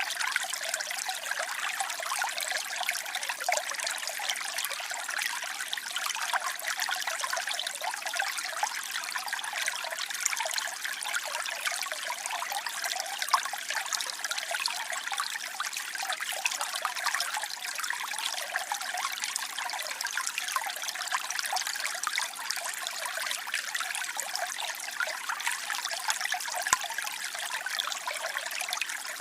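Waterfall, water falling and splashing steadily in a bright, even rush with no deep rumble.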